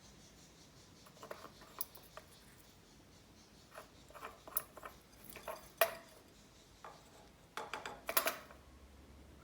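Small toy balls clicking and clattering on a hard surface as a green-cheeked conure plays with them: irregular light knocks and rattles, most of them in a busy cluster near the end.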